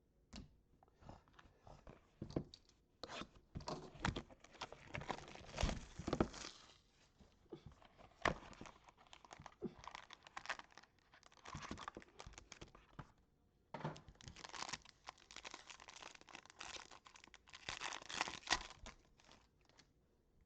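A trading-card pack wrapper being torn open and crinkled in the hands, in two bouts of crackling with a short pause between them.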